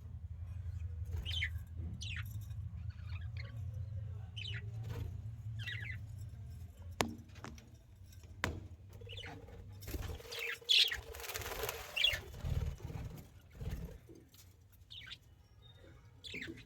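Budgerigars (budgies) chirping in short, scattered high calls, with a brief noisy flurry about two-thirds of the way through.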